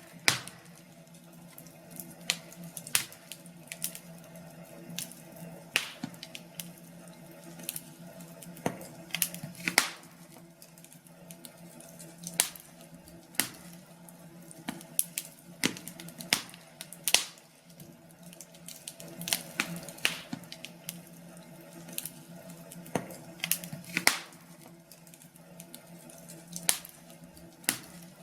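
Wood fire crackling in a fireplace: irregular sharp snaps and pops, several every couple of seconds, over a faint steady hum.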